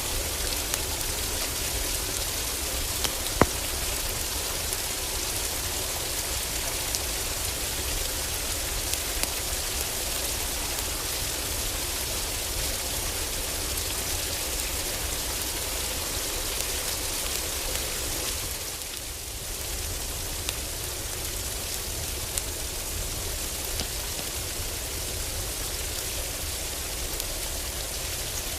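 Steady heavy rain on a wooden roof, with occasional sharp crackles and pops from a wood fire; the rain dips briefly about two-thirds of the way through.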